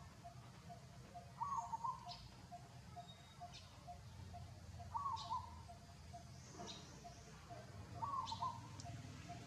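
Birds calling outdoors: a short warbling call repeats about every three seconds, with thin high chirps in between, over a faint steady pulsing background.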